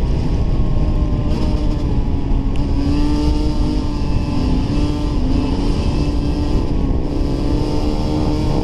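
Dirt bike engine running under way, its pitch rising and falling with the throttle, over a heavy low rumble.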